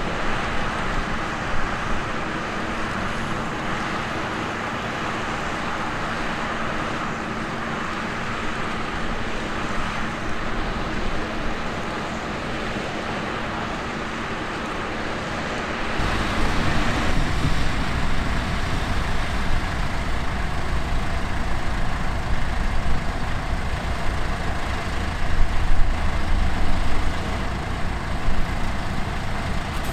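Heavy sugar-beet harvesting and loading machinery running steadily. About halfway through the sound changes abruptly to a louder, deeper engine rumble.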